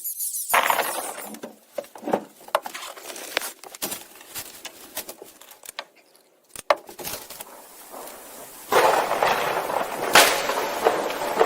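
A run of sharp knocks and clatter, then a steady rough scraping or rustling noise starting about nine seconds in, with more knocks over it.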